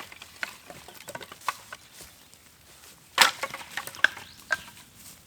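Dry wood cracking and snapping: an irregular string of sharp cracks, the loudest about three seconds in.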